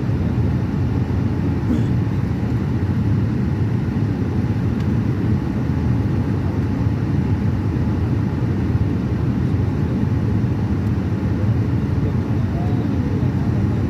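Steady low rumble of jet airliner cabin noise in flight: engine and airflow noise heard from inside the passenger cabin.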